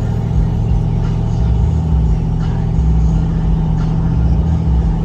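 A car engine idling steadily, low-pitched, with no revving.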